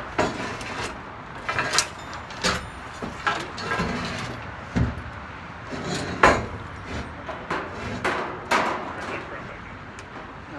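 Irregular clanks, knocks and scrapes of heavy scrap metal being shifted and dragged out of a pile of junk, the loudest bang about six seconds in.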